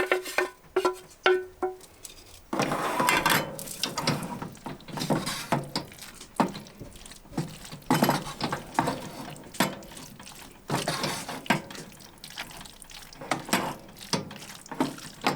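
Utensils clinking and scraping in a pan as drained tortellini are tossed with a mushroom and cream sauce, with light background music.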